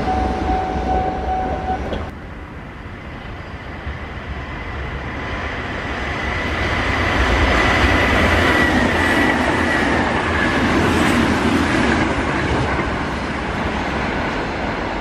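Sanyo Electric Railway electric express train passing at high speed: a rumble of wheels on rail builds and peaks as the train goes by, with a steady high motor whine that drops slightly in pitch as it passes. About two seconds in, the sound of an earlier passing train cuts off abruptly.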